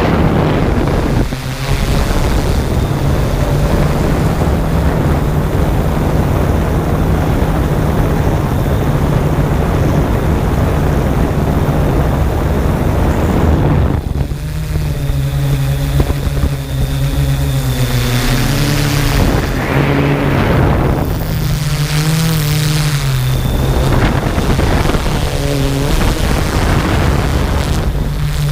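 Toy quadcopter drone's motors and propellers whining steadily, mixed with a rushing noise over the first half; from about halfway the pitch wavers up and down as the motors change speed.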